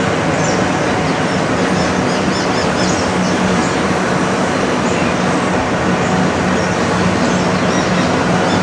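Train passing: a steady, continuous rumble with a constant low hum underneath and short high chirps scattered over it.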